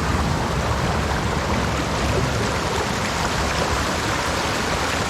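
Steady rushing of a creek running over rocks.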